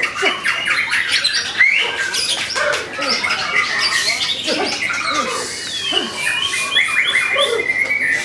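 White-rumped shama song: a dense, unbroken run of harsh rattling chatter mixed with short whistles and quick sweeping notes.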